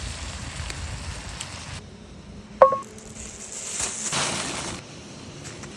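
Campfire cooking: fire crackling for the first couple of seconds, then a single sharp clink that rings briefly, followed by a hiss of food sizzling that swells and fades over about a second.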